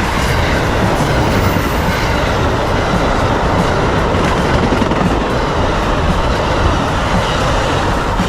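Amtrak passenger train hauled by twin Siemens ALC-42 Charger locomotives rolling past: a loud, steady rumble of steel wheels on rail, with light clicks as the wheels cross rail joints.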